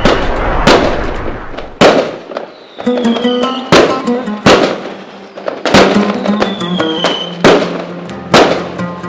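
Fireworks display: aerial shells bursting in sharp, echoing bangs about once a second, over music with held notes.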